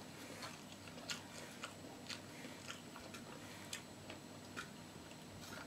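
A person chewing crunchy food close to the microphone, with sharp, irregular crunches about every half second to second.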